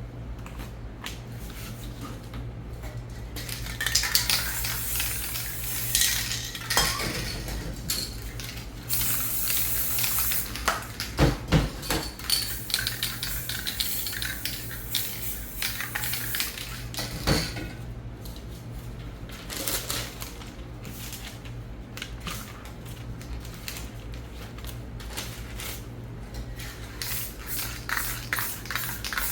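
Metal spray paint cans clinking and rattling as they are handled, with hissing bursts of spray, the brightest about nine seconds in.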